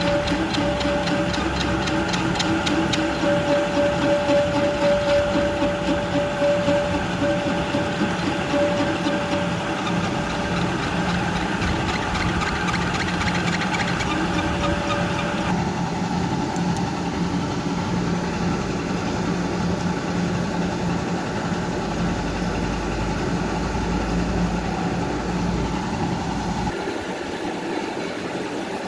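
Marine diesel engine running steadily, with a clattering beat and a steady whine through the first half.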